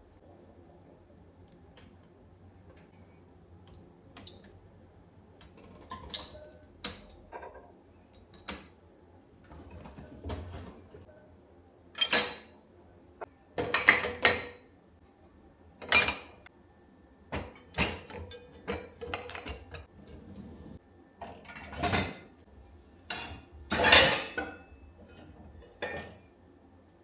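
Dishes and cutlery clinking and knocking against each other in a series of separate sharp strikes, some ringing briefly, starting about six seconds in.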